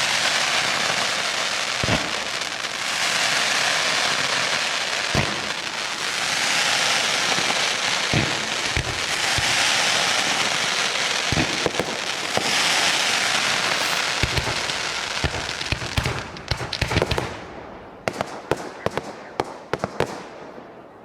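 Fireworks display: a dense, continuous crackling and fizzing from bursting shells, broken every few seconds by a single bang. Towards the end the crackle thins into a rapid string of separate sharp reports, which stops shortly before the close.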